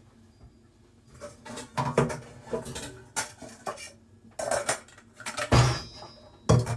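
A mixing bowl and kitchen utensils being handled: a string of clinks and knocks of dishware, the loudest about five and a half seconds in.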